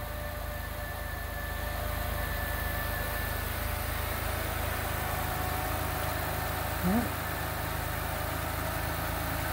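Jaguar V6 engine idling smoothly and steadily, purring, heard close up in the open engine bay. A brief sound rising in pitch comes about seven seconds in.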